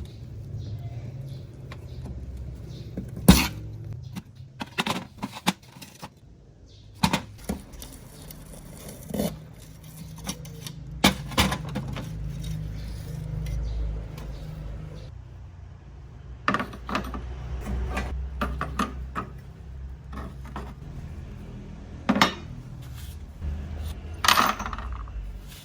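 Metal parts of an old lamp clinking and knocking against each other and a hard surface at irregular moments, with handling rumble between; the sharpest knock comes about three seconds in.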